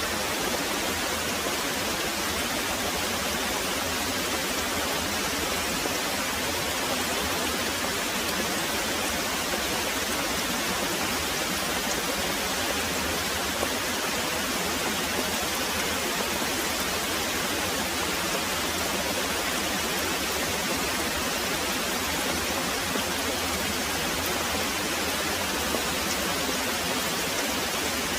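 Heavy rain pouring in an even, unbroken hiss, with no thunder.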